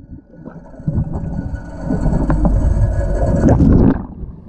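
Muffled underwater sound from a camera held below the surface of a swimming pool: a low rumble of moving water with faint steady hum tones, the sharper sounds returning near the end.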